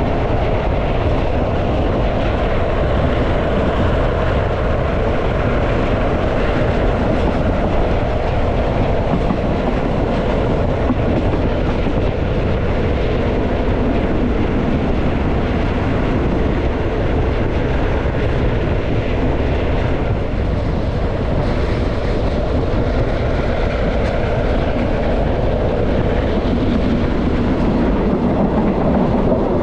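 Thai passenger train No. 51 running along the track: the steady, even noise of wheels on rails and the moving carriage.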